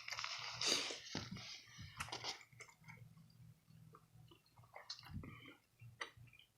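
A person chewing and crunching food close to the microphone: loud crunchy bites over the first two and a half seconds, then quieter, scattered mouth clicks.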